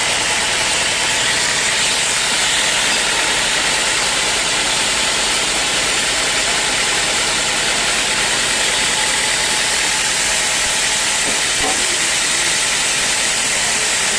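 Sawmill machinery running steadily: a loud, even hiss with a faint engine hum underneath.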